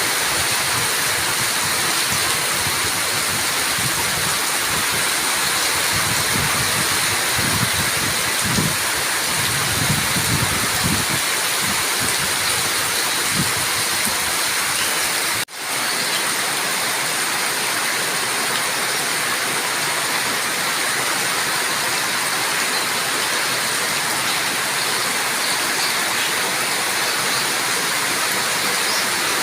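Steady heavy rain hiss, with low rumbles between about five and eleven seconds in. The sound briefly drops out about halfway through, then resumes.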